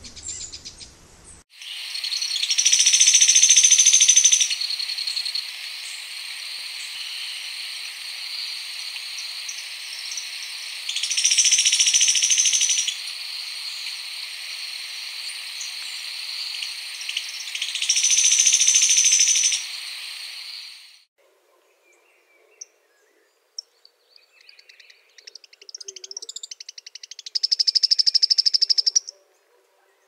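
Sharp-billed treehunter singing: three loud bouts of rapid, high trilled notes about seven seconds apart, over a steady high-pitched background tone. After a sudden break, scattered faint notes lead into another fast trill near the end.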